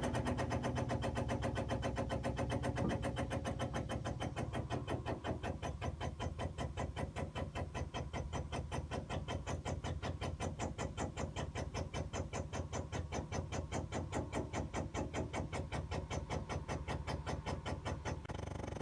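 The M1078 LMTV's cab-tilt hydraulic pump is being worked to raise the cab. It makes a steady low hum under a rapid, even pulsing of about four strokes a second, which stops near the end.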